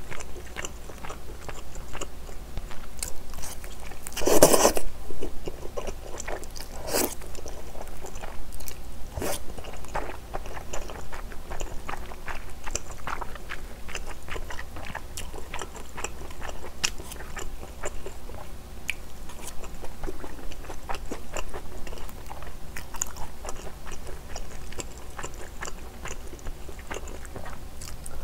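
Close-miked eating sounds: chewing and wet mouth clicks as Chinese glass noodles and braised chicken are eaten. A louder sound lasting about half a second comes about four seconds in, and a shorter one about seven seconds in.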